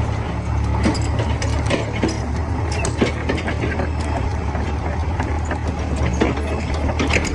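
A heavy diesel engine running steadily at low revs, with scattered irregular clicks and knocks of metal and wood over it.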